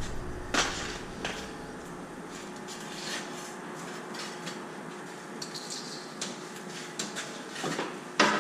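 Scattered metallic clicks, knocks and rattles of baling wire being fed into a mini baler, with a louder clank near the end.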